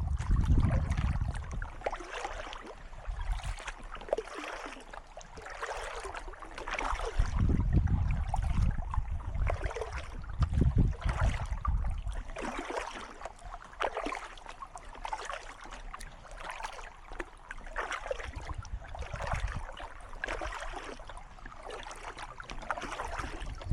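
Kayak paddle strokes splashing and dripping in calm water, about one stroke a second, with low rumbles now and then.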